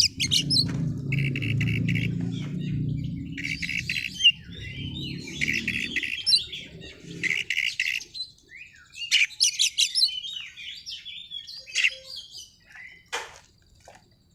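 Oriental magpie-robin (kacer) singing in repeated bursts of rapid chirps and trills, with sharp staccato notes in the second half. A low rumble runs under the song for roughly the first half.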